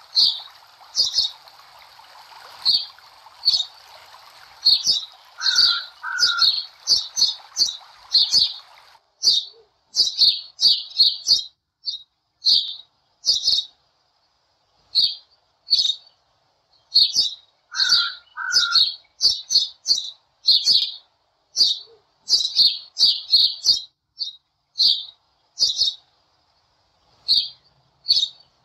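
Small songbirds chirping busily: short high chirps several times a second, with the same pair of lower notes coming back about every twelve seconds like a looped recording. A steady hiss runs under the chirping for the first nine seconds or so and cuts off abruptly.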